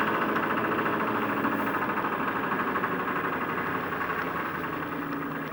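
1993 Chevy 6.5-litre turbo diesel V8 running shortly after a cold start, with a rapid, even ticking rhythm; it eases off slightly toward the end.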